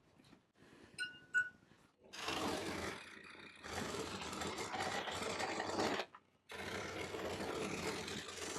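A noisy power tool working wood, running in two spells with a brief stop about six seconds in, after two short high chirps about a second in.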